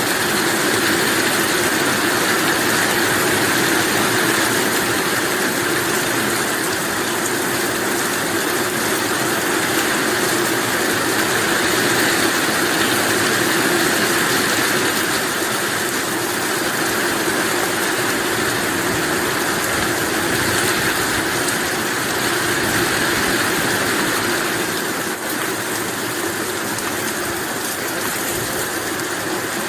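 Heavy rain falling in a steady downpour, a dense even hiss that eases slightly about 25 seconds in.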